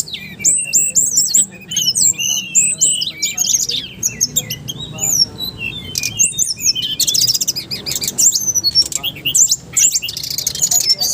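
Songbirds singing loudly and without pause: a dense overlap of high chirps and downward-sweeping whistles, broken by bursts of fast trills about seven seconds in and again near the end.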